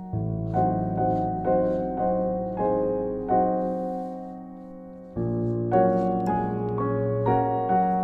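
Calm background piano music, notes and chords played at an easy pace, with a fuller chord coming in about five seconds in.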